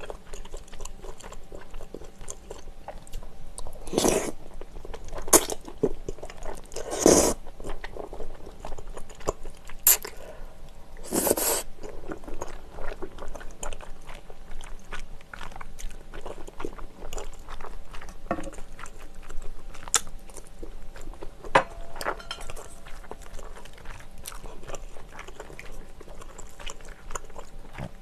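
Close-miked chewing and wet mouth sounds of a person eating glass noodles and seafood in a rosé sauce, with a steady run of small clicks and a few louder, longer bursts in the first twelve seconds.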